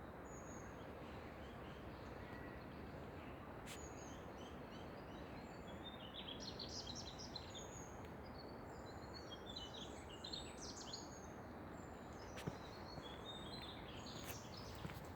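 Small birds chirping in quick, high twitters over a steady low background hiss, busiest in the middle, with a few faint clicks.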